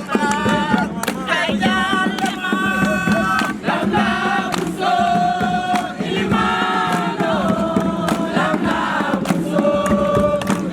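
A group of voices singing a campfire song together, with held sung notes changing every second or so, over sharp, regular percussive hits.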